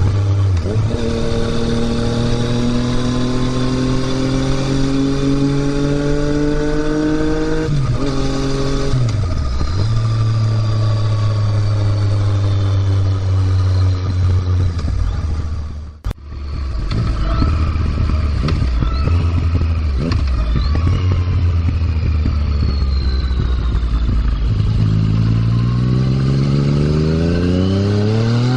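2020 Yamaha MT-09's 847 cc inline-three through an Akrapovic exhaust, accelerating under load. Its pitch climbs, drops at an upshift about eight seconds in, holds fairly steady, dips briefly around sixteen seconds, and climbs again near the end. The owner reports a hissing 'shaa' noise that comes only under throttle and has not been diagnosed.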